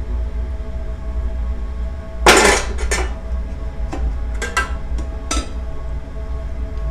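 Crockery and cutlery clinking: a short loud rattle, then several single clinks spread over the next few seconds.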